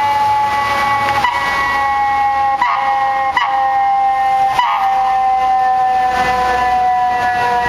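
Fire siren sounding one steady tone that slowly falls in pitch as it winds down, with four brief knocks breaking into it.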